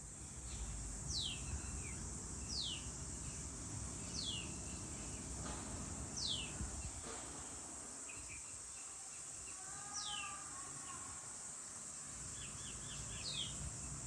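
Birds calling in the early morning: a sharp falling call repeated about every one and a half seconds, some softer lower notes around the middle, and a quick run of short notes near the end, over a steady high-pitched insect hum.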